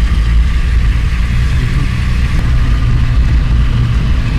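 A car driving along with a steady engine and road rumble.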